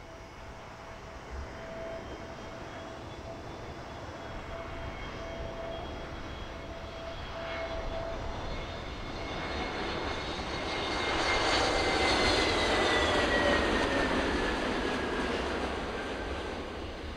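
Airbus A321neo jet airliner passing by on landing: the turbofan whine and rush build to a peak, then the whine falls in pitch as the aircraft goes past.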